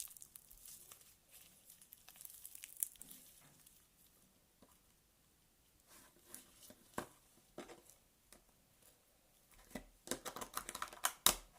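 Homemade glitter slime being squeezed and pulled by hand, giving scattered sticky crackles and clicks, with a denser run of crackling near the end.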